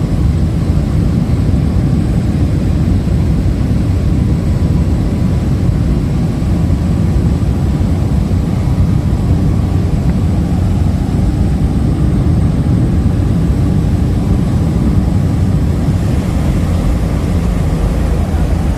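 Steady engine and air noise heard inside the cabin of an aircraft in flight, a loud even rumble heaviest in the low range.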